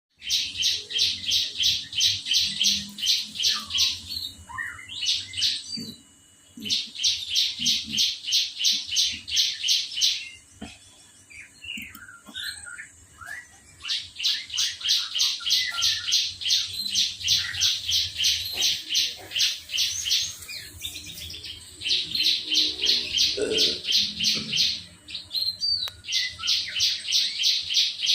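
Lovebird chirping in long runs of rapid, shrill, evenly repeated notes, about three to four a second. It sings five runs of several seconds each, broken by short pauses with scattered single chirps.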